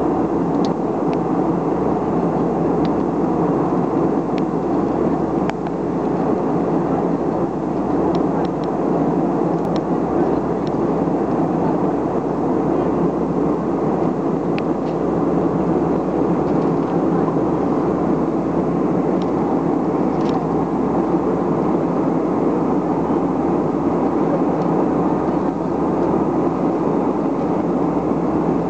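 Steady drone of an airliner's engines and rushing air heard inside the passenger cabin, unchanging throughout, with a few faint clicks here and there.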